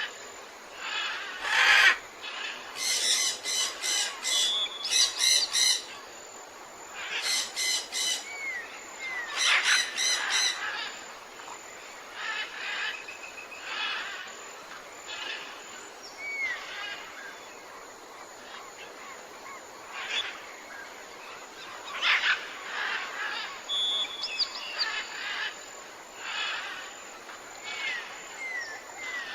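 Several birds calling at once: overlapping chirps and runs of rapidly repeated notes coming in bursts, with a few short upslurred whistles.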